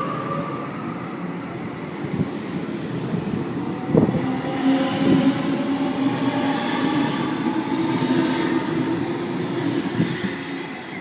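Sydney Trains Waratah (A set) electric train pulling away from the platform, its traction motors whining with several steady tones over the rumble of the wheels. A single knock from the wheels on the track about four seconds in.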